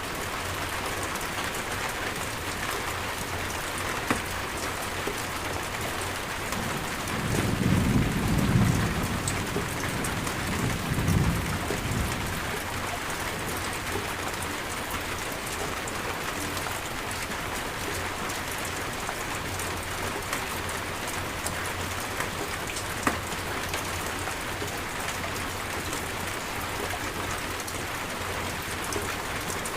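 Steady rain falling, with a low rumble of thunder that swells about a quarter of the way in and dies away over several seconds.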